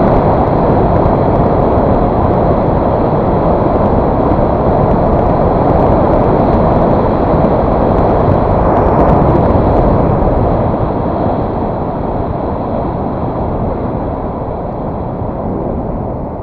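Steady, loud rush of wind and road rumble on the microphone of a moving motorcycle, with no clear engine note standing out; it eases off gradually after about ten seconds.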